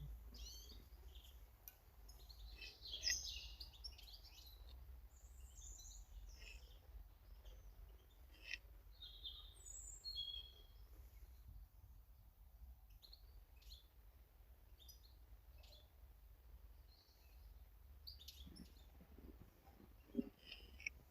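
Faint garden birds chirping and calling in short scattered notes, busiest in the first half, with a few brief sharp taps and a steady low hum underneath.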